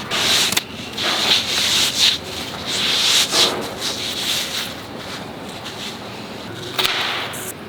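Repeated rubbing or scraping swishes, loud during the first few seconds and fainter afterwards, with one more swish near the end.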